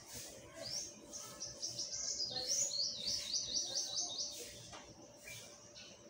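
Songbird singing outside: a rapid run of high repeated notes lasting about three seconds, stepping down in pitch toward the end.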